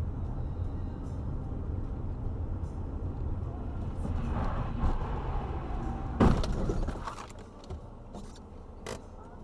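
Car driving, a steady low road and engine rumble as heard by a dashcam, with one sharp thump about six seconds in, after which the rumble drops away.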